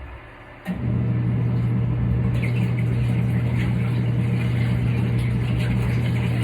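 Kuppet portable twin-tub washing machine's wash motor starting again under a second in, after a short pause, and running with a steady hum as it churns the load; the wash cycle stops and reverses direction in turn.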